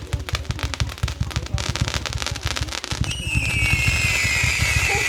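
Consumer 300-shot fireworks cake firing rapid shots in quick succession. About three seconds in, a loud whistling effect sets in and slowly falls in pitch, while the shots keep going underneath.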